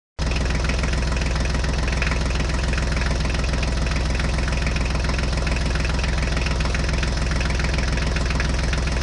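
Tractor engine sound running steadily at an even idle-like beat, cutting in abruptly just after the start out of dead silence.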